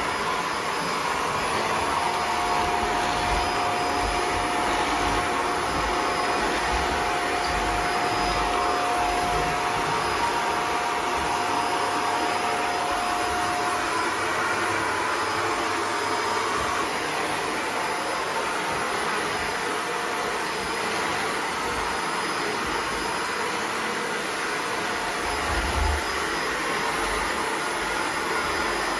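Household vacuum cleaner running steadily, with a steady whine through the first half and a few low bumps, one louder near the end.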